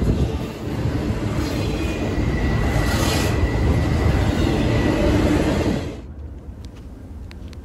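Double-stack intermodal freight train passing close by: a steady rumble and rattle of the container cars rolling on the rails, with a faint thin high tone partway through. It cuts off abruptly about six seconds in, leaving a much quieter low background.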